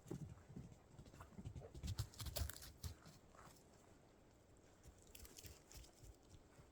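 Faint footsteps crunching in light snow, an irregular run of soft thuds and crisp crunches, strongest about two seconds in and thinning to a few scattered crunches later on.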